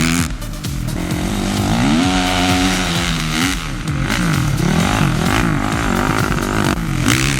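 Motocross bike engines revving, pitch rising and falling again and again as the bikes accelerate and shift.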